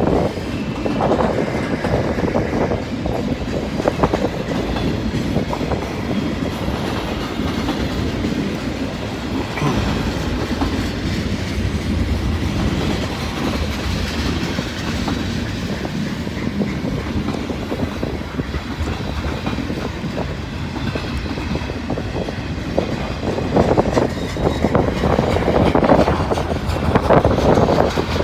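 Long CSX mixed-manifest freight train rolling past close by: steel wheels clacking over rail joints under a steady rumble of freight cars, a little louder near the end. Wind buffets the microphone.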